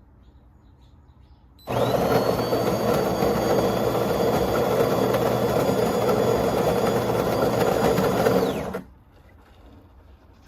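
De'Longhi Magnifica Start fully automatic espresso machine running a motor for about seven seconds: a loud, steady whir with a high whine that rises as it starts and falls away as it stops.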